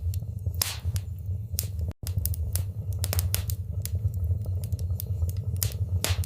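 Wood fire in a fireplace crackling, with irregular sharp pops and snaps over a steady low rumble of the flames. The sound cuts out for an instant about two seconds in.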